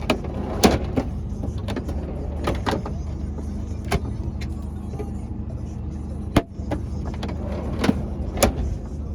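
Mercedes-Benz Actros 1948's straight-six diesel idling steadily, with a string of sharp clicks and knocks over it, the loudest about six and a half seconds in.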